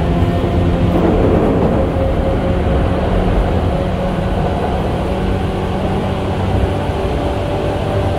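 Tokyu 8500 series electric train running at speed, heard from inside the car: a steady wheel-on-rail rumble under the low growl of its traction motors, with a brief louder rush about a second in.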